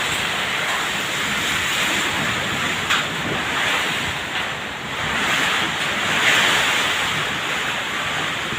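Storm wind gusting: a steady rushing noise that swells to its strongest about six seconds in, with one short knock about three seconds in.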